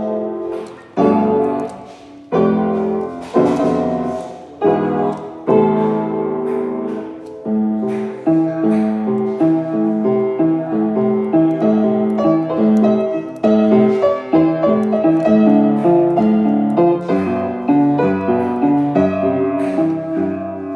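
Piano music: separate struck chords that ring and fade, then about eight seconds in a steady, quicker run of repeated notes.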